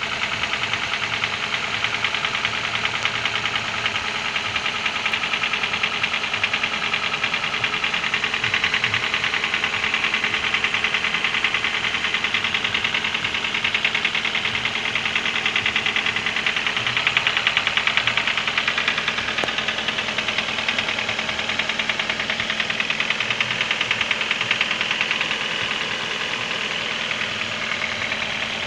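Toyota 7A 1.8-litre inline-four petrol engine running steadily with a rapid, even knock from inside the engine, the fault the engine is being shown for.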